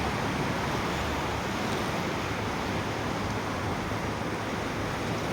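River in flood, its swollen water rushing in a steady, even noise.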